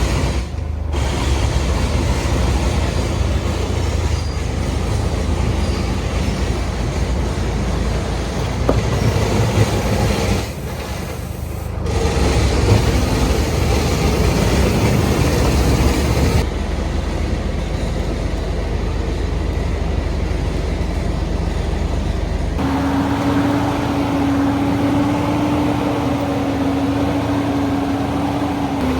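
An old heavy truck's engine running under load as the truck drives, in several segments that change abruptly. In the last part a steady whine sits over the engine noise.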